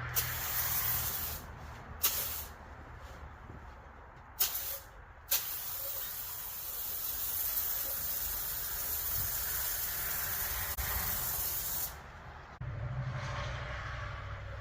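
Pump-up foam sprayer (iK Foam Pro 2) misting a car-wash solution: several short squirts, then one long spray of about six seconds that cuts off abruptly.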